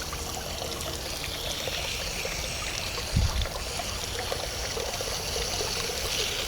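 Water running in a steady stream out of a 1968 Evinrude 6 hp outboard's cooling passages as the system is flushed. There is a dull thump about three seconds in.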